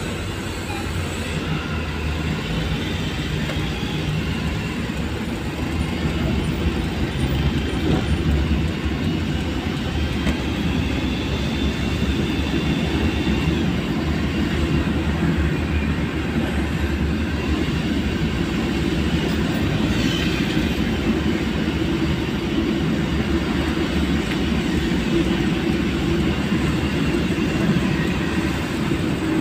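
Steady rumble of a vehicle driving on a rain-soaked road, with tyre and road noise and faint high whines that come and go.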